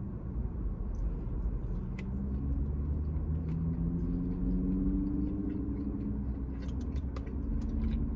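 Chewing and small mouth and eating clicks while eating loaded cheese fries, over a steady low rumble.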